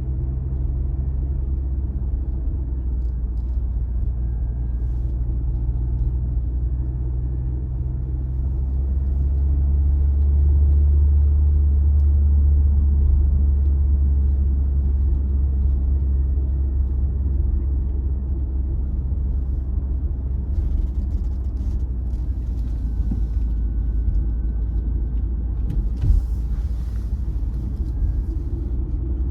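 A car driving: steady low engine and road rumble that swells a little louder about halfway through, with a single short thump near the end.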